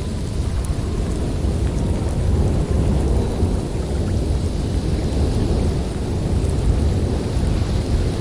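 Snowstorm wind blowing hard: a steady, deep rumbling noise that swells a little and eases, with a few faint ticks on top.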